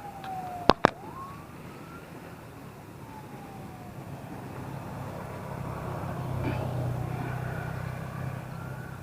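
Road traffic: a vehicle's low engine hum swells and fades in the second half, with a faint tone sliding slowly up and down. Two sharp clicks sound close together about a second in.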